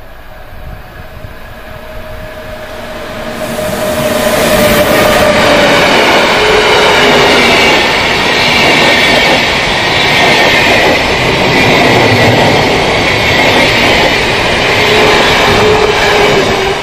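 Swiss electric passenger train running through a station: a rising rumble with a steady whine as it approaches, then a loud rush of wheels on rail from about four seconds in as the coaches pass close by, falling away at the very end.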